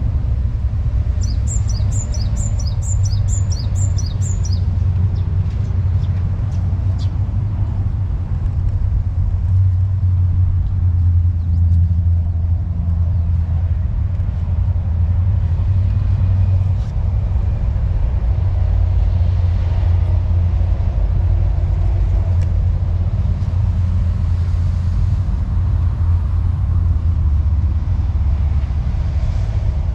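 A steady low rumble throughout, with a bird chirping a quick run of about eight high notes in the first few seconds.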